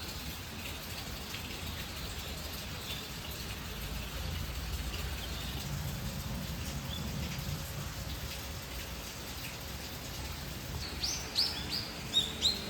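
Wild birds chirping over a steady background hiss in woodland. Near the end one bird gives a quick run of loud, sharp calls, each falling in pitch.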